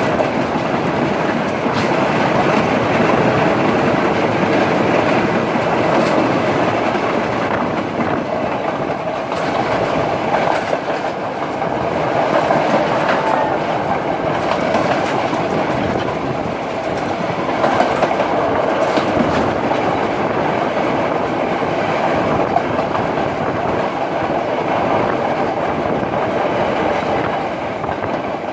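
Passenger train running along the line, with a steady rumble and the clickety-clack of wheels over rail joints, plus scattered sharp clicks.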